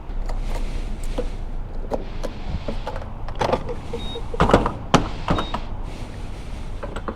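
Clicks, knocks and rustling from handling at a gas pump, loudest in a cluster about three and a half to five seconds in, with two short high beeps a little over a second apart.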